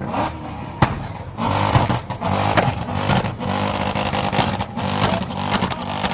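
Loud car engine revving, with sharp pops scattered through it.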